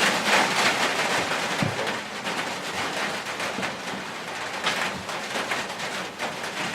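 Steady rain on the shop roof, an even hiss with a few faint knocks mixed in.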